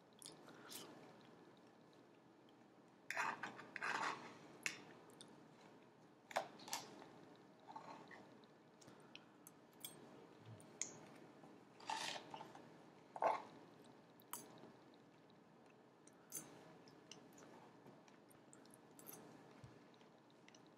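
A person chewing a meal of baked salmon and broccoli close to the microphone, with irregular small clicks and scrapes; the louder clusters come about three seconds in and again about twelve seconds in.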